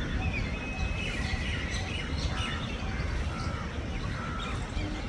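Several small birds chirping and calling, with many short notes and quick pitch glides overlapping, over a steady low rumble.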